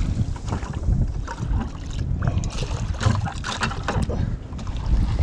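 Irregular knocks, clatter and rustling of gear being handled in a canoe, with wind buffeting the microphone.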